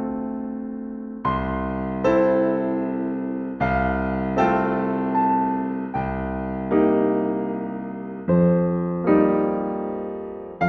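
Slow, gentle solo piano music: soft chords struck about once a second, each left to ring and fade before the next.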